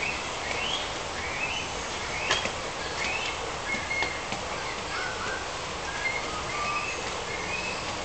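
Birds chirping: short rising calls, about two a second, over a steady background hiss.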